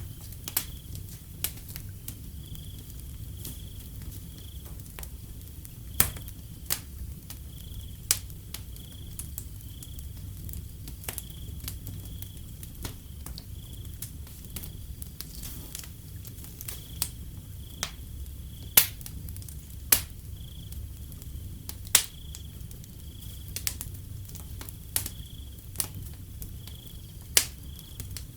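Wood fire crackling with irregular sharp pops, several of them loud, over a low rumble. A cricket chirps steadily in an even rhythm throughout.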